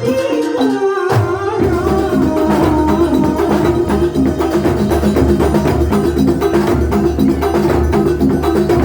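Live Banyuwangi kuntulan music: an ensemble of drums and percussion playing a fast, even rhythm over a melodic line, with the low drums coming in strongly about a second in.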